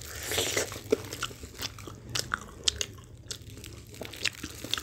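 Fried, sauce-coated chicken wings being bitten and chewed: a scattering of short, sharp crunches.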